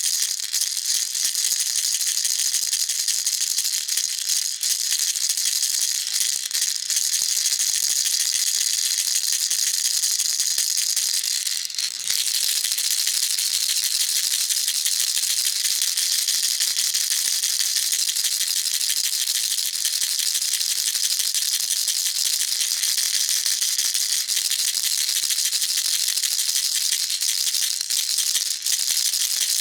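Baby rattle shaken steadily and fast, a continuous dense hissing rattle of small beads, with a brief dip about twelve seconds in.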